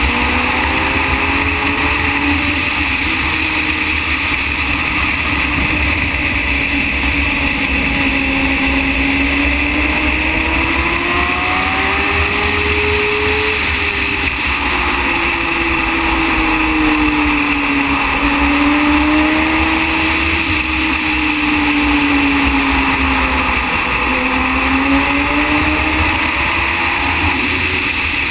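Racing motorcycle engine at speed, heard from onboard, its note rising and falling slowly through corners and straights, with steady wind rush on the microphone.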